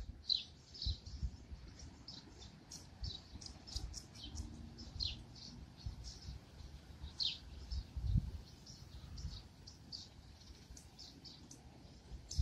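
Small birds chirping: many short, high chirps, a few a second, with a low rumble and a few soft bumps underneath, loudest about eight seconds in.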